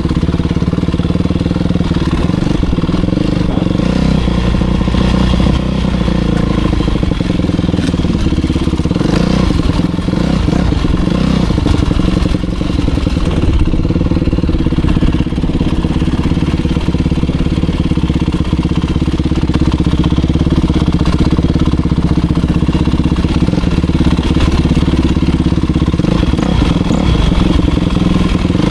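Motocross bike engine running while being ridden. Its pitch rises and falls through the first twelve seconds or so, then holds steadier.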